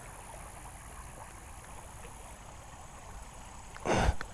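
Creek water running steadily with a low rumble of wind on the microphone, and a brief loud noise about four seconds in.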